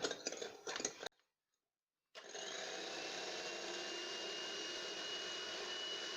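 Electric hand mixer running at a steady speed with a thin constant whine, beating eggs and sugar together. It starts about two seconds in, after a moment of dead silence.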